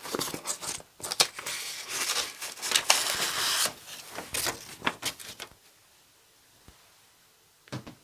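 Sheets of paper being rustled and shuffled, with some crinkling and a few sharp clicks, dying away about two-thirds through; a short soft thump near the end.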